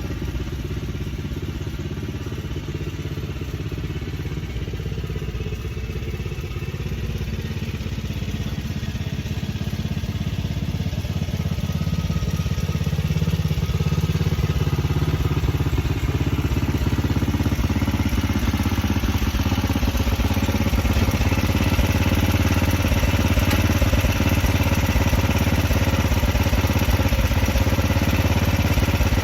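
1985 Murray lawn tractor's small engine running steadily during a test drive, growing louder from about ten seconds in.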